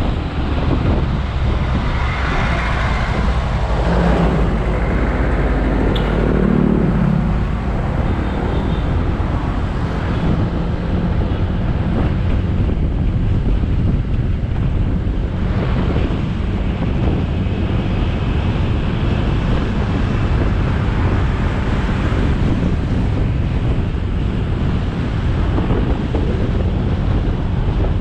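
Motorcycle riding along a road: a steady roar of engine, tyre and wind buffeting on the camera microphone, with a passing traffic engine note that falls in pitch between about two and seven seconds in.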